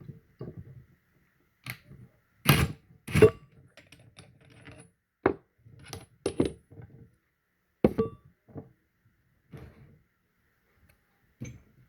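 Steel pieces of a ball joint press kit clinking and knocking together as they are handled and fitted, about a dozen irregular sharp clinks, the two loudest close together a couple of seconds in.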